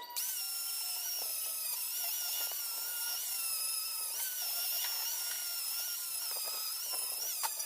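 Small electric power tool running with a steady high-pitched whine, its pitch dipping slightly now and then as it takes load.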